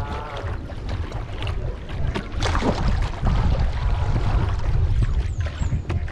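Kayak paddle strokes dipping and splashing in river water, with a low rumble of wind on the microphone.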